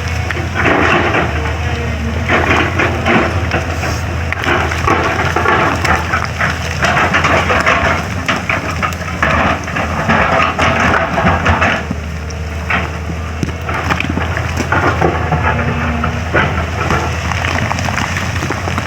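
Excavator's diesel engine running steadily under load, with repeated crunching and clattering of broken road material as the bucket digs and drops the rubble.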